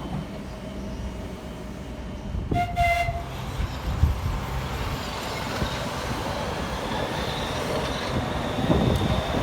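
A passing train gives a short horn toot about three seconds in. A train's rumble then builds, with a thin high wheel squeal near the end.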